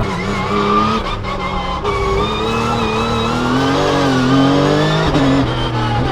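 Rally car engine running hard under load, its pitch climbing and falling and shifting again about five seconds in.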